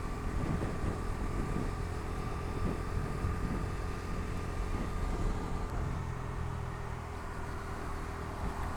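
Bajaj Dominar 250's single-cylinder engine running at a steady cruise, with wind and road noise.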